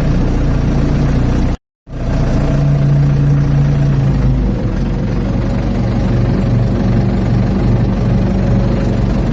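Ford 755 backhoe's engine running steadily, its note shifting a few seconds in. The sound cuts out completely for a moment near the start.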